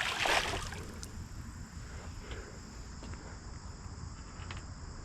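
Crickets or other insects chirring steadily in the background, under a low rumble of wind on the microphone. A brief rush of noise in the first half-second stands out as the loudest moment.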